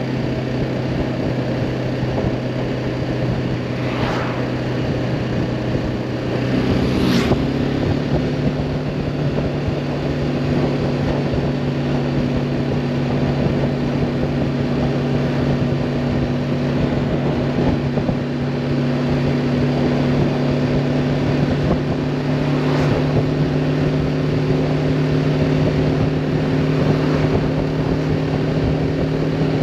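BMW G310R's single-cylinder engine running at a steady pitch under way, with a rush of wind noise over it. The engine note changes and grows a little louder about seven seconds in, and brief rushes of noise sweep past about four, seven and twenty-three seconds in.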